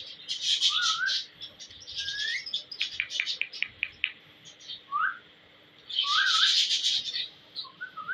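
Ringneck parakeet calling: harsh screeches about half a second in and again around six seconds, with short rising and falling whistles and a quick run of clicks in between.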